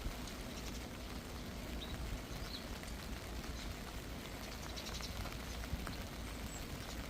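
Steady rain falling, with scattered drops pattering and a low rumble beneath, and a few short high chirps.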